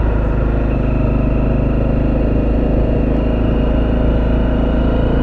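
Honda CRF250L's single-cylinder four-stroke engine running at a steady, even speed, with a strong low rumble and no change in pitch.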